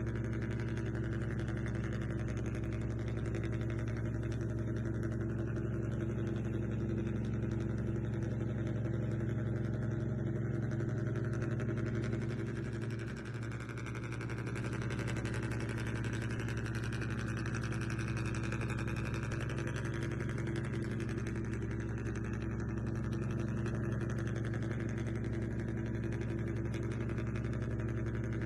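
Steady idling engine drone, even and unchanging, with a brief dip in loudness about halfway through.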